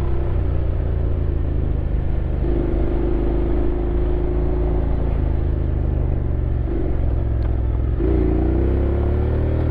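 Honda X-ADV 750 parallel-twin engine running under way, holding steady revs, then climbing in pitch as it accelerates about eight seconds in.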